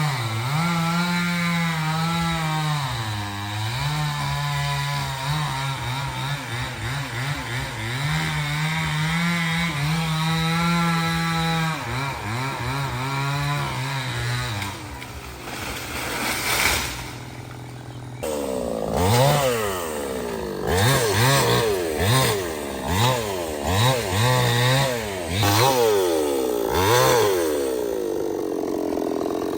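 Stihl 070 two-stroke chainsaw running in a cut, its pitch mostly steady with occasional dips as it bogs under load. About two-thirds of the way through the sound changes abruptly, and after that the revs rise and fall about once a second.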